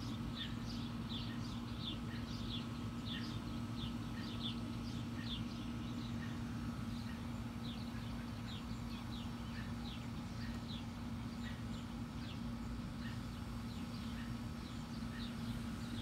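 Birds chirping in a continuous run of short, falling calls, a few a second, over a constant low hum.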